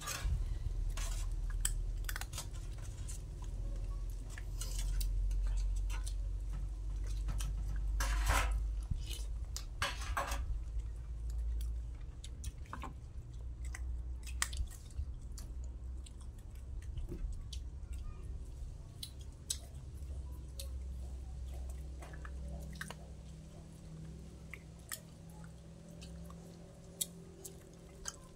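Close-up chewing of fish curry, with spoons clicking and scraping on a metal serving tray. A low rumble sits underneath in the first half, and a faint low hum near the end.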